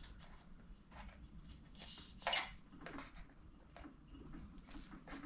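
A few light clicks and taps of small plastic, rubber and metal parts being handled and fitted together, the clearest about two seconds in.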